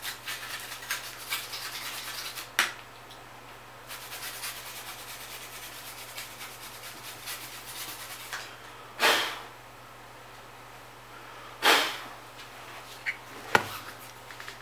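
A brush scrubbing dust off a graphics card's circuit board and heatsink, a rapid scratchy rubbing in two stretches. A few short, louder bursts stand out, the strongest about nine and twelve seconds in.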